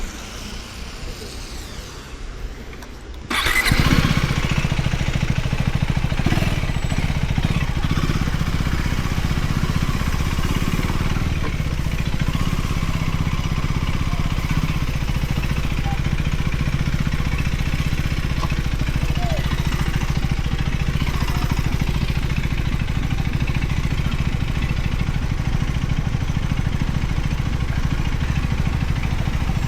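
A motorcycle engine comes in suddenly about three seconds in, then runs steadily and loudly with a deep, even drone.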